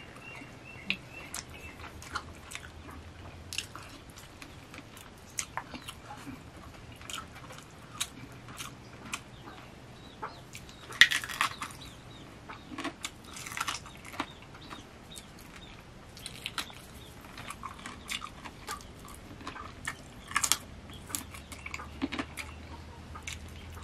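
Close-miked eating sounds: a man chewing and smacking his mouth as he eats rice and chicken with his fingers. Many scattered short wet clicks and smacks, with a few louder bursts about halfway through and near the end.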